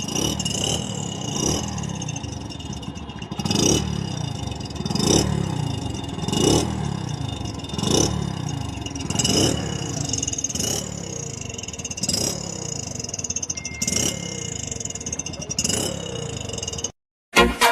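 Hero Splendor Plus's single-cylinder four-stroke engine breathing through an aftermarket GCL silencer, its throttle blipped again and again about every second and a half, each rev dropping back to idle. A sharp crack comes with each blip. The sound cuts off suddenly near the end.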